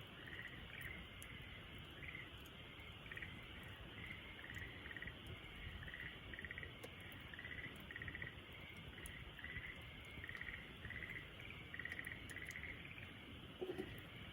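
A small animal, frog or insect, calling steadily in short, finely pulsed chirps, about one to two a second, over a faint wood fire crackling with scattered light ticks. A short lower-pitched sound comes in near the end.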